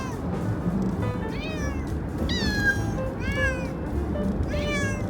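Pet cats meowing about four times, each a long call that rises and falls in pitch, complaining at being shut in a moving car. Background music plays underneath.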